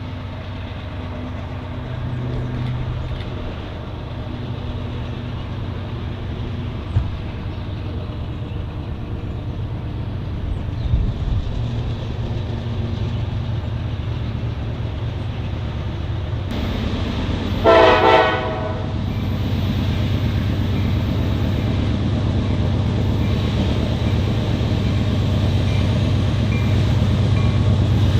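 Approaching train, its low rumble slowly building, with a short horn blast about two-thirds of the way through and another horn sounding right at the end.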